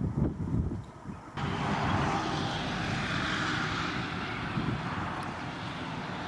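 Wind buffeting the microphone, then, from about a second and a half in, the steady rushing engine noise of an aircraft passing overhead, which swells and slowly fades.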